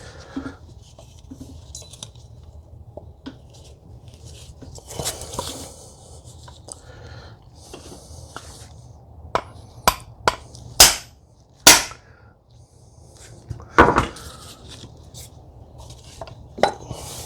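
A new transmission half-shaft seal being tapped into its bore with a hammer: a handful of sharp taps at irregular intervals, with quieter handling and scraping between them.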